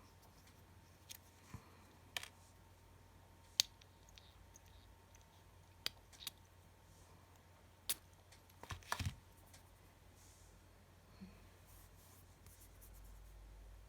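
Faint, scattered light clicks and taps of small objects being handled, with a short cluster of knocks about nine seconds in, over a low steady hum.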